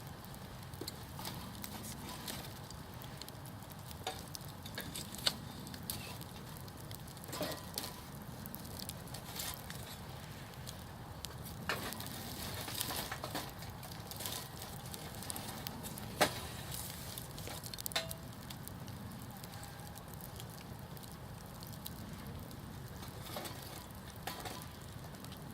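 Wood campfire burning, with a steady low rush of flame and irregular sharp crackles and pops from the burning wood. Two pops stand out, about five seconds in and about sixteen seconds in.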